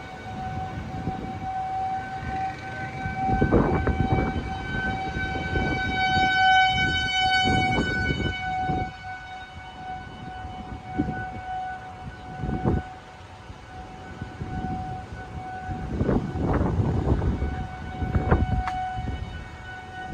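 Outdoor tornado warning siren sounding a steady tone, signalling a tornado warning in effect. Gusts of wind buffet the microphone with low rumbles.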